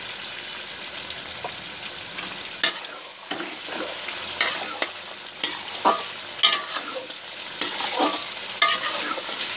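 Beef karahi sizzling in its own fat in a metal pan during the final frying (bhuna) stage. A metal spatula stirs it, scraping and knocking against the pan several times from about two and a half seconds in.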